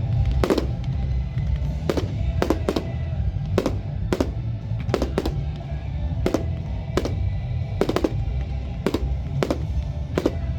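Fireworks going off in sharp single bangs at an irregular pace, roughly one or two a second, over background music.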